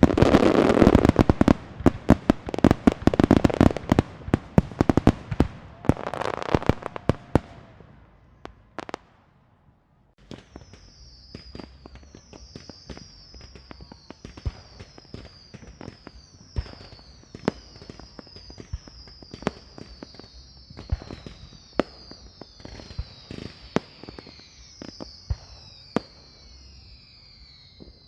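Fireworks: a dense barrage of bangs and crackling for the first eight seconds or so, then after a short lull, scattered pops and bangs with a repeated high, falling whistle-like note about once a second through the rest.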